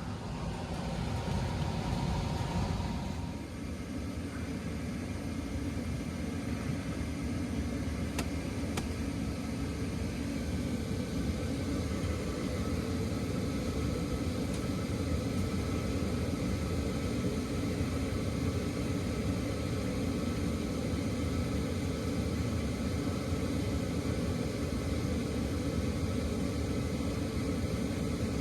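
A 2022 Payne standard-efficiency gas furnace running steadily, burners firing and the blower moving air, heard as an even low rush. It is on its first heating run after install, burning off the manufacturer's oils on the new heat exchanger.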